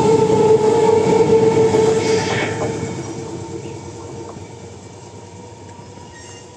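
Electric multiple unit (EMU) local train's coaches rolling past on the rails: a loud rumble with a steady hum, fading away after about two and a half seconds as the last coach goes by.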